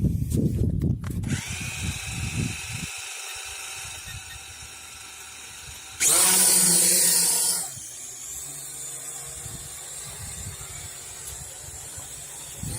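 Syma X8 quadcopter motors spinning up about a second in, then holding a steady whine of several tones from its propellers. Wind buffets the microphone at the start, and a loud rushing surge lasts about a second and a half midway.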